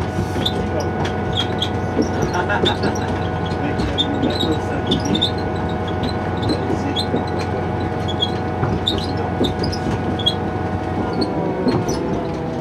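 Diesel railcar running along the track, heard from inside the carriage: a steady engine and running hum with many short, high wheel squeaks and clicks. The engine note drops near the end.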